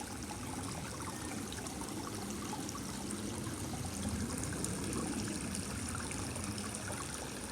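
Running water of a small stream, a steady trickling flow.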